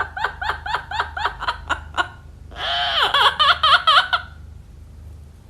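Parrot imitating laughter: a quick run of short ha-ha pulses, about six a second, for two seconds, then a louder, longer warbling cackle.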